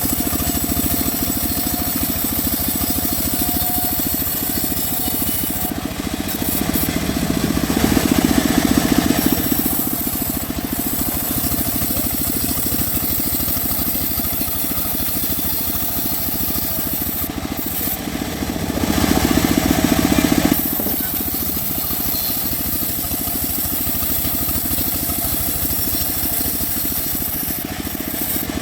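Homemade sawmill running steadily while sawing mahogany, with the sound swelling twice for about two seconds as the blade cuts under load.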